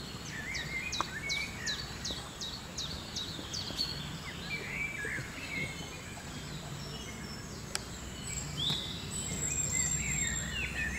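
Rainforest birds calling: one bird gives a quick series of about a dozen high, falling notes over the first few seconds, and other birds chirp here and there afterward. A steady high-pitched whine runs underneath.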